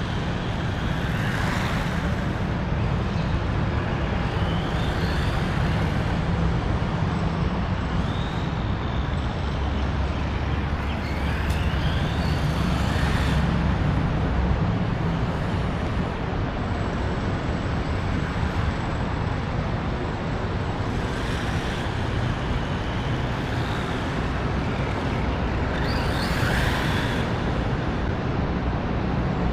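Steady road-traffic rumble from the expressway overhead, with a few brief rising and falling whines passing through.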